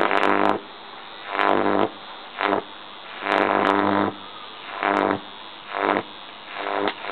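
High-voltage AC arcs drawn from a microwave oven transformer at about 2 kV, buzzing in short repeated bursts of under a second each, about seven in all, with sharp snaps as several of them strike.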